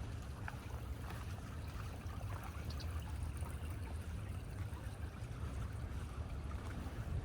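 Outdoor street ambience: a steady low rumble with faint scattered ticks and clicks over it.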